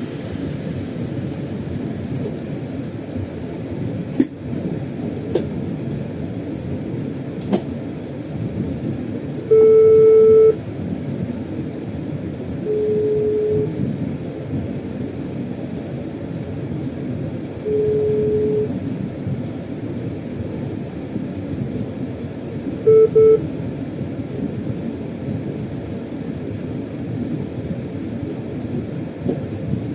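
Freight locomotive cab under way, with the steady rumble of the train running on the rails and a few sharp clicks. A cab warning buzzer sounds several times: one long loud beep, two quieter beeps a few seconds apart, then a quick double beep.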